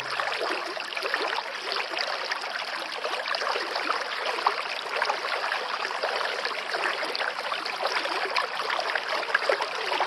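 Running water flowing and trickling steadily, like a small stream.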